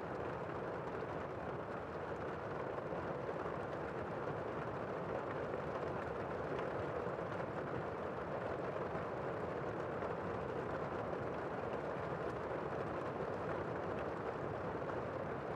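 A steady, even rushing noise without any tone or rhythm, mostly low and mid pitched.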